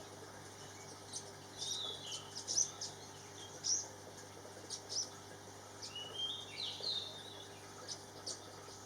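Small birds calling: sharp high chirps scattered throughout, with two short twittering phrases about two seconds in and again around six to seven seconds in.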